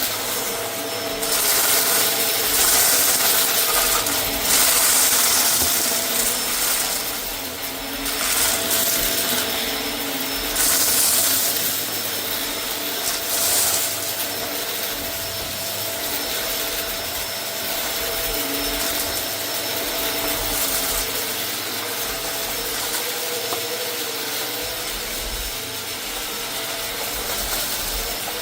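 Vacuum cleaner running over a rug: a steady motor whine under a rushing hiss, with several louder swells of hiss during the first dozen seconds.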